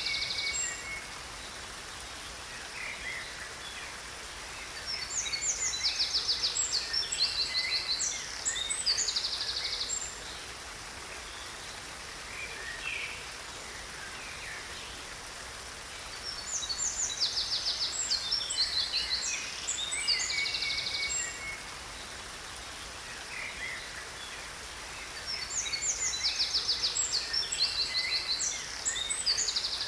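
Songbirds singing in three bouts of high, rapid trills with scattered single calls between them, over a steady hiss of a waterfall.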